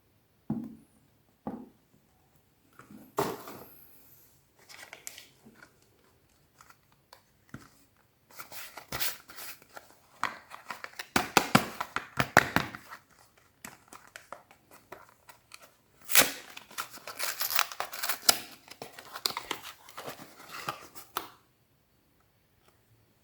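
Soap packaging being torn and crinkled open by hand: a few small taps and rustles at first, then long runs of crackly tearing and crinkling, the loudest from about 8 to 13 seconds in and again from about 16 to 21 seconds in.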